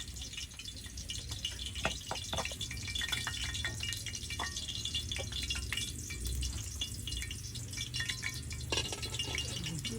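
Water dripping and pattering, with irregular sharp ticks over a steady hiss.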